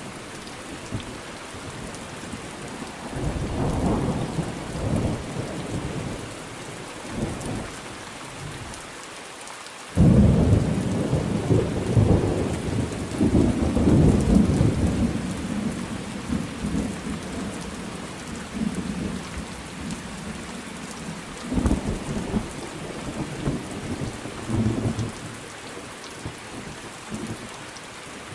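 Thunderstorm: steady rain falling, with rolling thunder over it. A low rumble comes a few seconds in. A sudden loud thunderclap about ten seconds in rolls on for several seconds, and weaker rumbles follow near the end.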